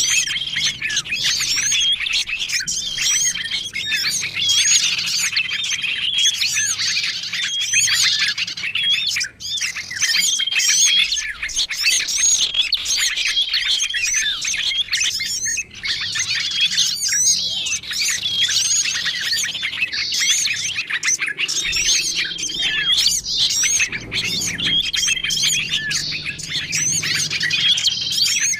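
Bird-lure recording of many small songbirds calling at once, a dense, unbroken mix of chirps and twitters, with a short flat whistled note recurring several times. The mix is a lure call meant to draw in small wild birds such as tailorbirds, prinias and bulbuls.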